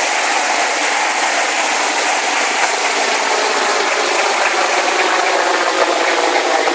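Helicopter running close by: a steady, loud rush of rotor and engine noise, with a faint steady hum coming in about halfway through.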